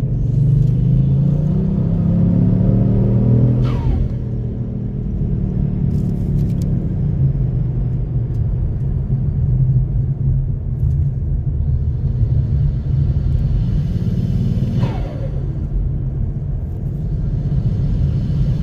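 Kia Stinger GT's 3.3-litre twin-turbo V6 under hard acceleration twice, the pitch rising each time. Each pull ends with a falling turbo whoosh when the throttle lifts, the turbo flutter of this JB4-tuned car: once about four seconds in and again near fifteen seconds, with steady engine running between.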